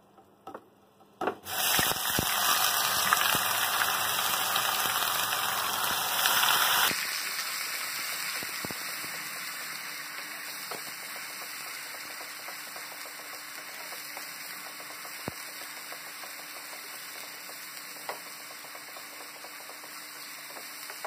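Green chilli, ginger and garlic paste frying in hot oil in a kadai. It starts to sizzle loudly about a second and a half in as it hits the oil, then drops to a quieter, steady sizzle that slowly fades, with a few faint clicks of a wooden spatula stirring it.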